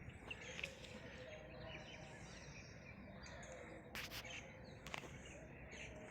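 Faint open-air background with scattered bird chirps and calls, and a couple of short clicks about four and five seconds in.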